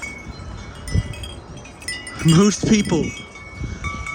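Wind chimes ringing in strong gusty wind, several clear tones sounding and overlapping. A low thump about a second in.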